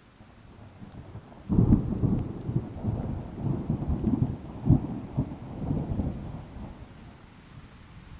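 A thunderclap over rain: a low rumble builds, cracks sharply about a second and a half in, then rolls on in repeated low booms for several seconds before fading back to the rain.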